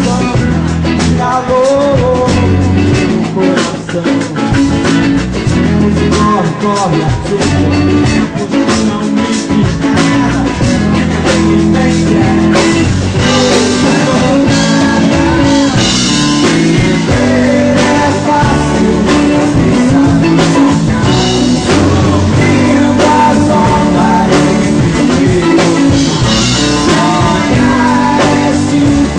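A band playing surf rock: drums, bass and guitars with singing, with steady drum beats throughout.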